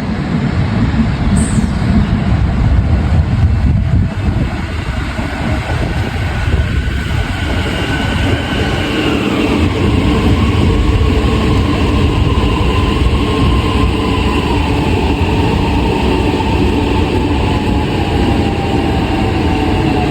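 High Capacity Metro Train (electric suburban train) running with a heavy rumble; its motor whine slides steadily down in pitch from about eight seconds in, as an electric train does when braking.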